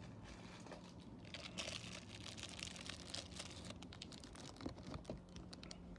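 Faint crinkling and light clicking of small plastic items being handled: a run of quick crackles starting about a second in, with a few sharper clicks near the end, over a low steady hum.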